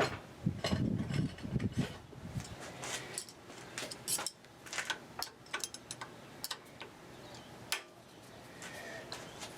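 Hand tools and metal parts being handled in a woodturning shop: a run of irregular sharp clicks and clatter, with a short low rumble in the first couple of seconds.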